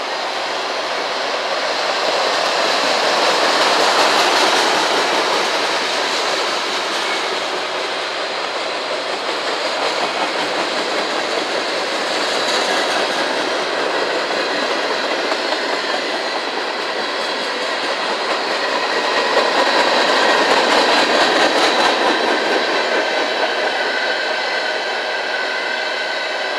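Freight cars of a CSX manifest train rolling past: a continuous rumble of steel wheels on rail with repeated clicking over rail joints, swelling in loudness about 4 and 20 seconds in. Faint steady high ringing tones sit over it, most clearly in the later part.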